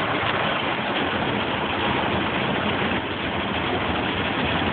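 Automatic car wash running over a car: a steady rush of water spray and machinery on the car body.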